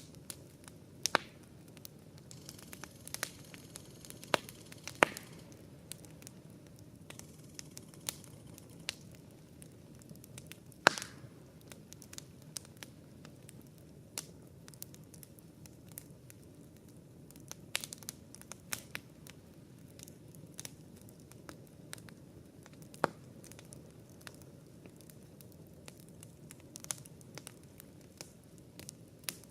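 Wood campfire crackling: sharp irregular pops and snaps over a steady low rumble of the burning fire, with the loudest pops about a second in, around four and five seconds, near eleven seconds and near twenty-three seconds.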